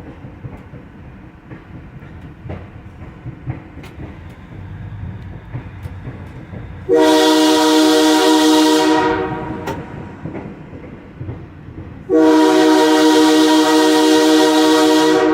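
Locomotive air horn sounding two long blasts, the first about two seconds long and the second about three seconds, over the low steady rumble of the moving locomotive, heard from inside its cab.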